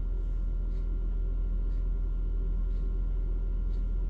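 Truck crane's diesel engine running steadily as a low, even rumble, with a faint tick about once a second.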